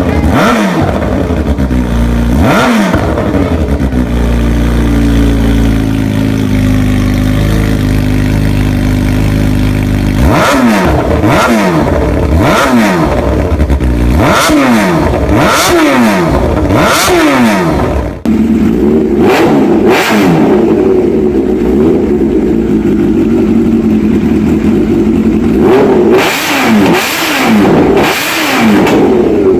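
Kawasaki Ninja H2's supercharged inline-four, fitted with aftermarket exhausts, revved in a series of short throttle blips that rise and fall in pitch, settling to a steady idle for several seconds midway. After a cut about two-thirds of the way through, a second exhaust is heard with a steady drone under more revs.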